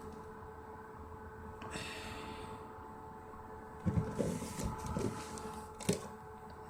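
Portable dehumidifier running with a steady hum. There is a short rustle about two seconds in, a cluster of handling knocks and clatter around four to five seconds, and a sharp click near the end.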